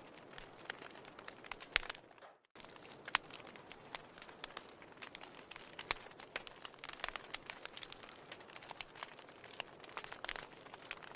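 Wood fire crackling, with frequent sharp pops and snaps at irregular intervals over a soft steady hiss. The sound drops out completely for a moment about two and a half seconds in, then carries on.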